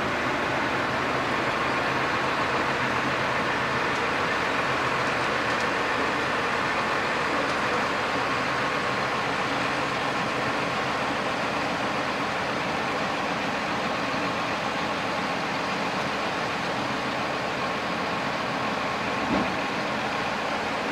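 Greentec 952 Mega wood chipper and its tractor running steadily, a continuous machine noise with one short knock near the end.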